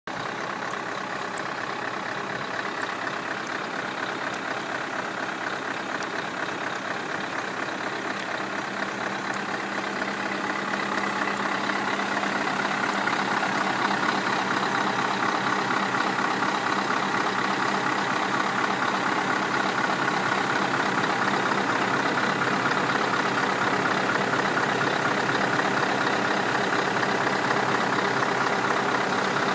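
Scania 164L's 16-litre V8 diesel idling steadily, growing louder between about ten and thirteen seconds in.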